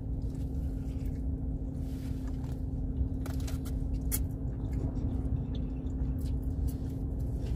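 A person biting and chewing a soft French toast sandwich, with scattered short mouth clicks, over a steady low hum inside a car.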